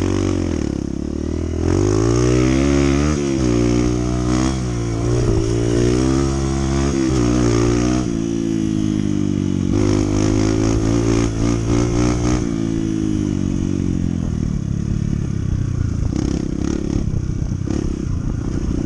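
Honda CT125's single-cylinder four-stroke engine running under way, its pitch rising and falling as the bike speeds up and slows down, with a steadier stretch about halfway through.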